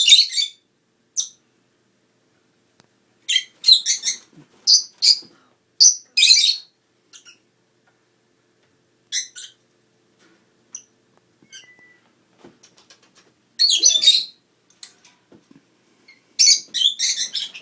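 Lovebirds giving short, high-pitched chirping calls in clusters, with quiet gaps between, the busiest runs about 3 to 6 seconds in, around 14 seconds and near the end.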